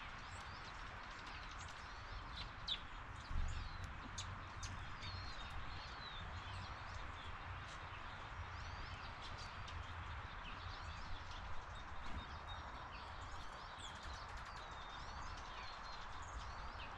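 Small birds chirping and twittering again and again over a steady outdoor hiss, with a few short knocks about three seconds in and near twelve seconds.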